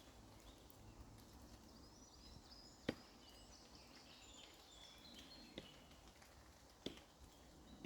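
Near silence, with faint high chirping in the middle and three sharp clicks or knocks, the loudest about three seconds in.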